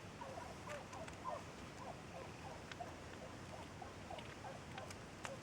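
Faint, rapid run of short chirping calls from small animals, about three or four a second at irregular spacing, with a few light clicks.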